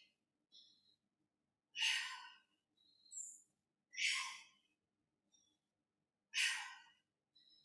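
A woman breathing out hard with exertion during a heavy weighted exercise: three loud exhalations about two seconds apart.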